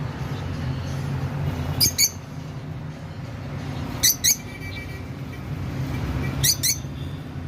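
A small bird chirping: three quick double chirps, about two seconds apart, over a steady low hum.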